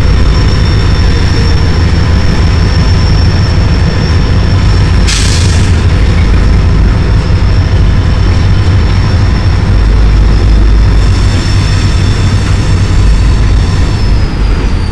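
Train cars rolling past close below: a loud, steady rumble of wheels on rail with a thin, constant high squeal. A brief hiss breaks in about five seconds in.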